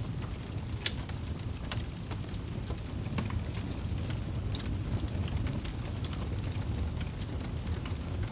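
Wood fire burning in a fireplace: a steady low rumble of flames with irregular sharp crackles and pops from the burning firewood.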